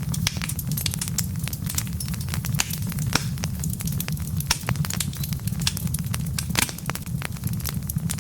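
Wood fire burning in a fireplace: a steady low rumble of flames with frequent, irregular crackles and pops from the logs, a few sharper pops standing out.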